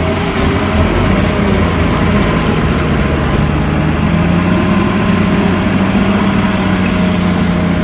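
Diesel engine of heavy earthmoving machinery running steadily at an even speed.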